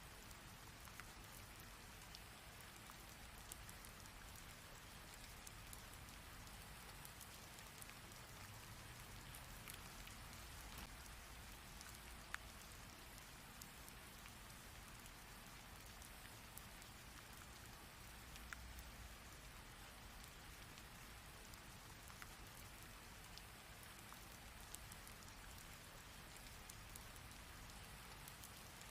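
Rain falling steadily as an even hiss, with individual drops ticking here and there and one sharper drop about twelve seconds in.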